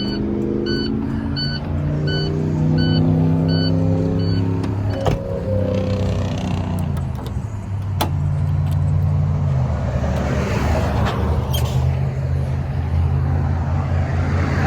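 Semi truck's diesel engine pulling under load, its pitch climbing for about five seconds, dropping around six seconds in as it shifts, then running steady. A repeated electronic beep sounds about once every 0.7 s for the first few seconds.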